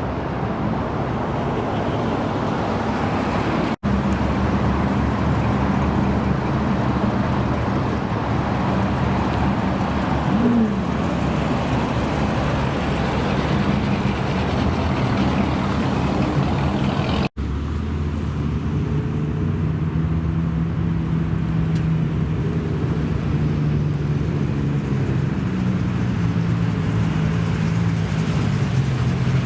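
American muscle car engines running steadily at idle, heard in three separate clips with sharp cuts between them; a brief rise in pitch about ten seconds in.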